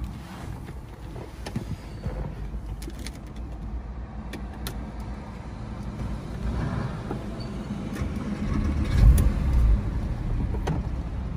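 Porsche 996 Carrera 4S's naturally aspirated 3.6-litre flat-six starting up: a brief low burst as it catches about nine seconds in, then a steady idle.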